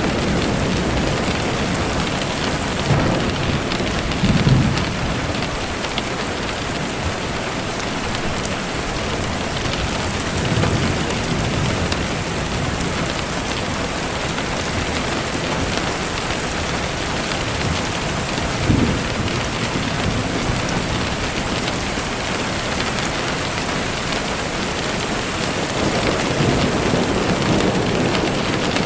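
Steady rain falling, with a few brief low rumbles of thunder rising out of it.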